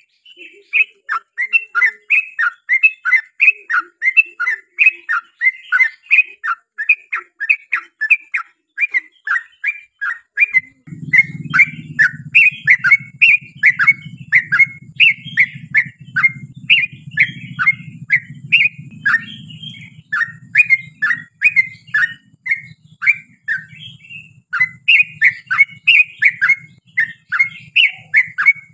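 Yellow-vented bulbul singing a long, fast run of short chattering notes, about two to three a second. A faint low rumble joins in about 11 seconds in.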